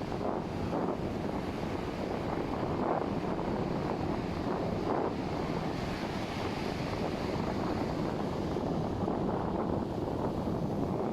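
Sea wind buffeting the microphone over the steady wash of ocean surf on the beach.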